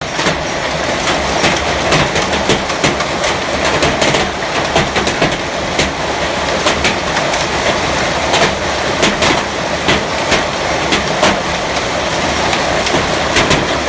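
Hailstorm: a steady, dense rush of falling hail and rain, with many sharp, irregular clicks of hailstones striking.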